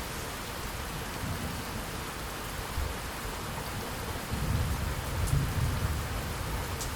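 Steady rain falling, with a low rumble of thunder swelling about four seconds in and fading near the end.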